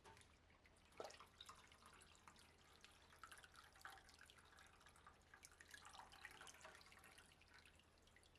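Faint water dripping and trickling, with scattered small ticks and splashes.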